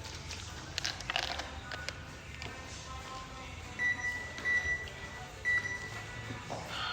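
A high electronic beep sounding three times, about four to six seconds in, over faint background music.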